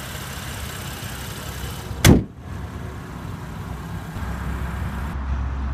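BMW 435i's twin-turbo 3.0-litre inline-six idling steadily, with a car door shutting in a single solid thud about two seconds in.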